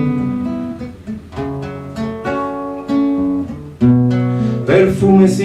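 Acoustic guitar playing an instrumental passage of plucked notes and strummed chords between sung lines, with the singer's voice coming back in near the end.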